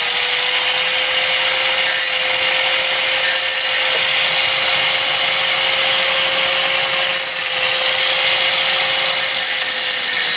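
Angle grinder running steadily under load, grinding down a weld on steel, with a steady motor whine under the hiss of the grinding.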